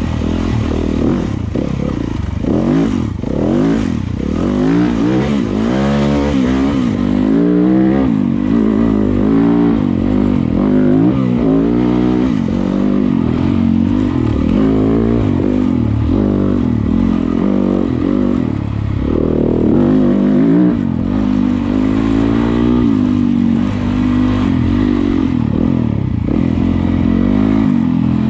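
Yamaha YZ250FX dirt bike's single-cylinder four-stroke engine being ridden, its revs rising and falling again and again with the throttle.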